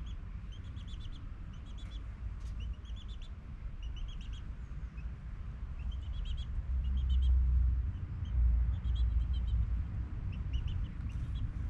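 Small birds chirping in quick clusters of three to five high notes, repeated throughout, over a steady low rumble that swells in the middle.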